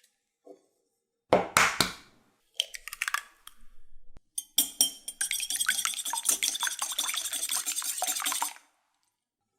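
Kitchen bowl and utensils being handled: a sharp knock, a few clinks, then about four seconds of dense, rapid scraping and clinking against the bowl.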